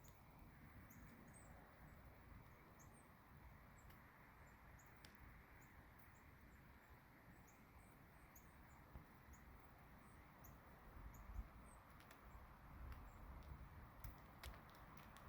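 Near silence of outdoor ambience: a soft steady hiss over a low rumble, with many short, high-pitched bird chirps scattered throughout and a few faint ticks.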